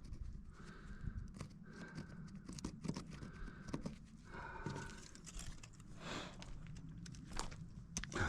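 Chalk line being used on a timber beam: the line drawn off its reel in short zipping pulls and snapped against the wood, among scattered knocks and footsteps.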